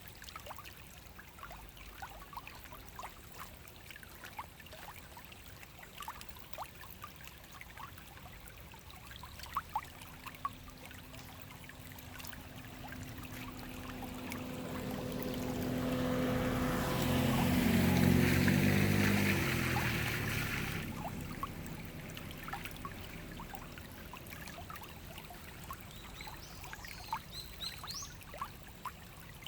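Small forest stream trickling, with water drops plinking. About ten seconds in, the engine of a passing vehicle rises to its loudest about midway, then fades away.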